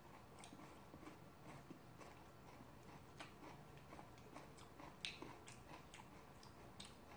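Faint chewing, with soft scattered clicks of chopsticks picking through food on a ceramic plate.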